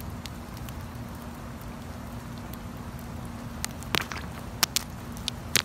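Steady light rain pattering on wet asphalt and grass. From about three and a half seconds in come a few sharp clacks of stones dropped onto the wet pavement, the loudest near four seconds and again near the end.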